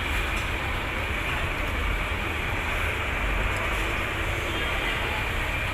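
Steady low mechanical rumble with a constant hiss above it, unchanging throughout.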